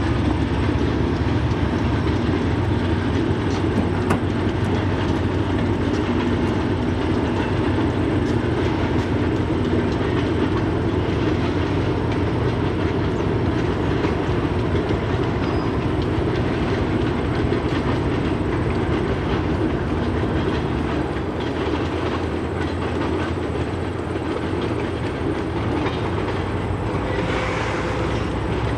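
Freight train cars rolling past with the clickety-clack of steel wheels over the rail joints, a steady rumbling noise throughout.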